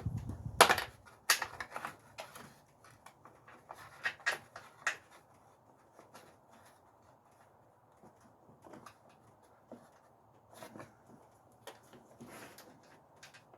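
Scattered clicks and knocks of hand tools and metal and plastic parts being handled in a car's engine bay, busiest in the first couple of seconds and again around four to five seconds in, then sparse.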